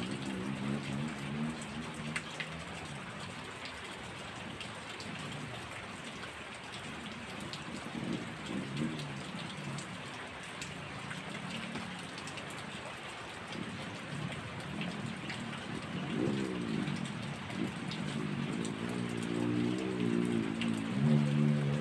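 Heavy rain falling steadily. Under it a low pitched drone comes and goes, sliding up and down about two-thirds of the way through and loudest near the end.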